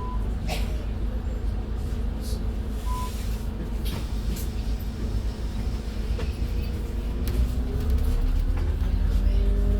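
Scania N280UD double-decker bus's CNG engine and Voith automatic driveline running, a steady low drone heard from the upper deck, growing louder and rising slightly in pitch over the last couple of seconds as it pulls harder. Two short high beeps sound near the start and about three seconds in.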